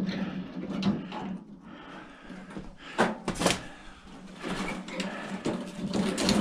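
Hand tools and metal parts of an old microwave being worked and handled during disassembly: scattered clicks, knocks and scrapes, the sharpest two about three seconds in, half a second apart. A faint steady hum runs underneath.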